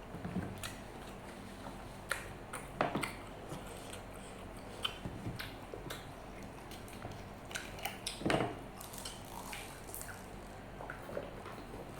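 Close-miked chewing and mouth smacks of a person eating nasi Padang mixed with martabak Mesir, with scattered short clicks and a few louder smacks, the loudest a little past the middle.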